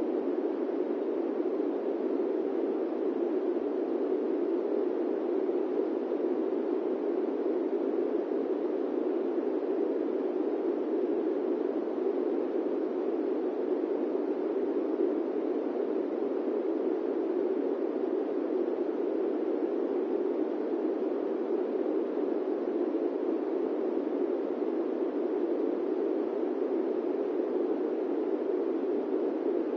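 Steady airplane cabin noise: an even, muffled rushing that never changes, with no engine tones or other events.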